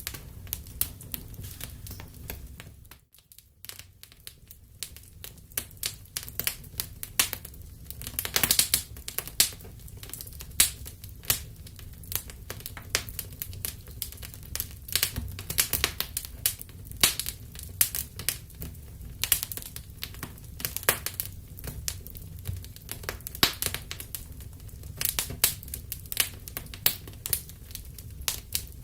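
Wood fire crackling, with irregular sharp snaps over a low steady rumble. The sound briefly drops out about three seconds in.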